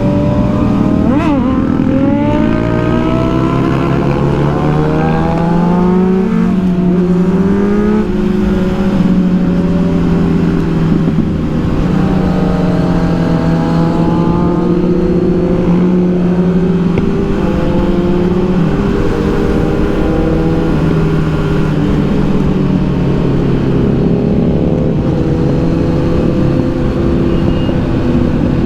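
Kawasaki Z900's inline-four engine under way, its pitch climbing in a few rising sweeps through the first six seconds as the bike accelerates through the gears, then holding fairly steady revs with small rises and dips.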